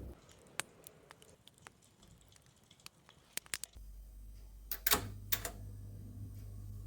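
Light clicks and taps of kitchen items being handled. A little past halfway a low steady hum starts, and soon after comes a short cluster of louder clatters.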